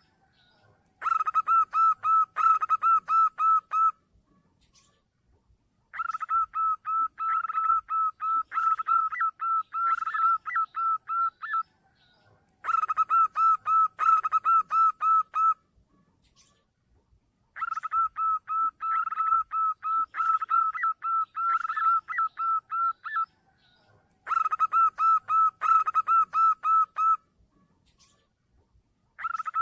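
Zebra dove (perkutut) call played as a trapping lure. The calls are rapid runs of short, clear coos, about four a second, in five bouts of three to six seconds with short pauses between them.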